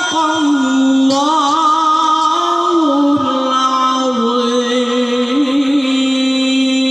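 A man's voice reciting the Quran in melodic tilawah style, holding one long ornamented note with small wavering trills, stepping down a little in pitch about four seconds in.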